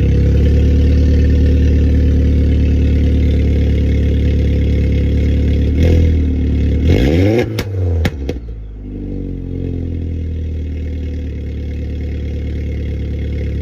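Vauxhall Astra VXR's turbocharged four-cylinder engine idling after a cold start through a Powerflow aftermarket exhaust. About six seconds in it is briefly revved, the note rising and falling, with a few sharp clicks around eight seconds. It then settles back to a steady, slightly quieter idle.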